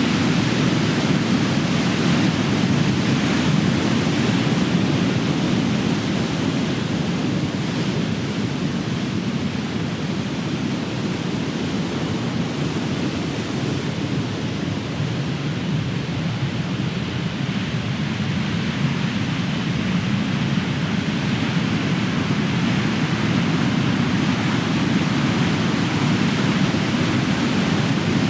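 Heavy ocean surf: large waves breaking and washing in a continuous deep rumble, easing a little in the middle and building again near the end.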